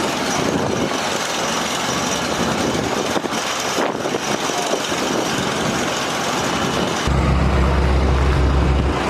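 Steady rushing noise of strong wind. About seven seconds in, the low, steady hum of a large engine running close by joins it.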